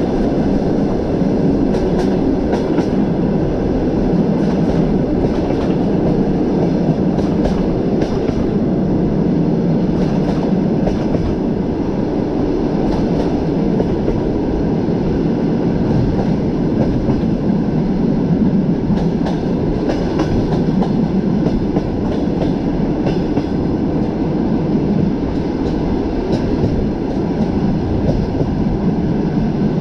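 Train running at speed on the track: a steady rumble of wheels on rails with the clack of wheels over rail joints now and then.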